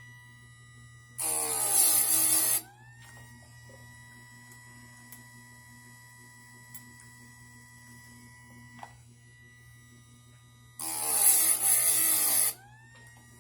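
Harbor Freight electric chainsaw sharpener's motor running with a steady hum, its grinding wheel brought down onto a chain tooth twice, about a second in and again near the end, each a loud grind of about a second and a half. After each grind the motor's whine climbs back up in pitch as the wheel regains speed.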